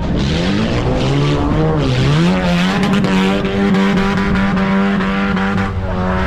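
Off-road racing vehicle's engine revving hard, its pitch stepping up and down in the first two seconds, then climbing about two seconds in and held at high revs.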